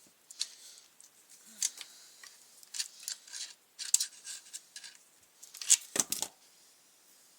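Irregular light clicks, ticks and scrapes of hand tools and plastic trimmer parts being handled while the fuel tank is taken off, with a louder cluster of knocks about six seconds in.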